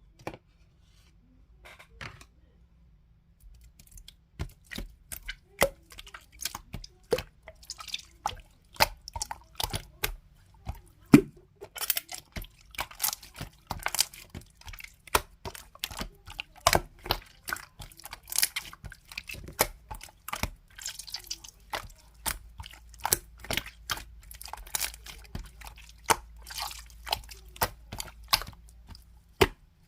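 Slime being squished and pressed by hand, making rapid wet clicks and pops that begin about three and a half seconds in.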